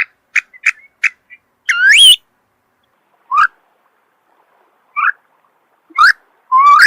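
Songbird calling and singing: a quick run of short sharp chips, about three a second, then single whistled notes that slide upward in pitch, each a second or so apart, with a longer whistled phrase starting near the end.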